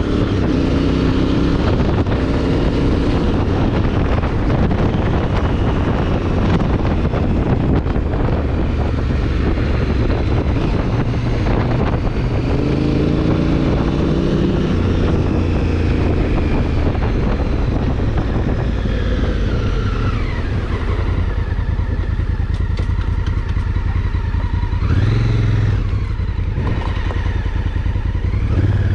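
Honda Africa Twin CRF1000L's parallel-twin engine running under way while the bike is ridden. The revs rise and fall with the throttle and gear changes, with several quick rising sweeps in the last third.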